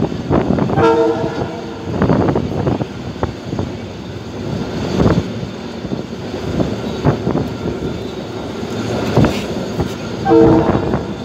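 Abu Qir suburban train moving, heard from inside a carriage: wheels knocking and clattering over the rail joints and the car rattling. A short horn blast sounds about a second in and again near the end.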